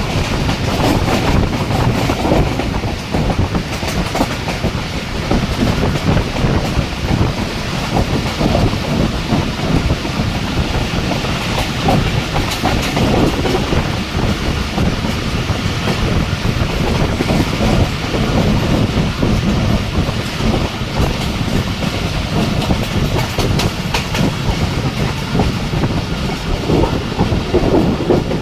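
Jaffar Express passenger train running at speed: a steady rumble of wheels on the rails with a continuous clatter over the track.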